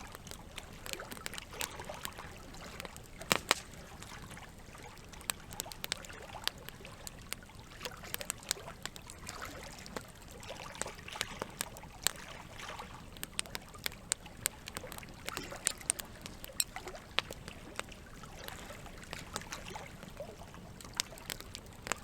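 Wood campfire crackling, with frequent irregular sharp pops and snaps and one louder pop a few seconds in, over a steady background of water.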